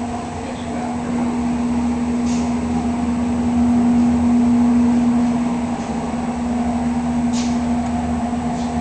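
Steady machine hum at one constant pitch over an even background hiss, the running noise of motor-driven shop equipment such as a booth fan or compressor.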